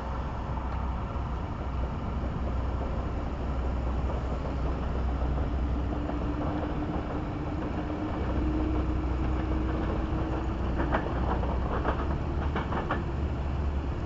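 Electric-hauled passenger train pulling away and fading into the distance: a steady low rumble with a faint, slightly rising whine, and several clicks near the end.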